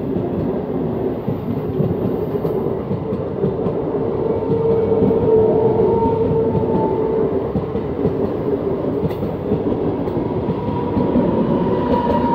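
Cream-and-blue passenger coaches of a train passing close by at speed: steady loud rumble of the wheels on the rails with a rapid clatter over the rail joints.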